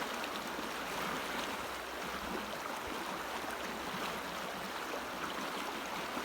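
River water flowing steadily: a constant rush of running water.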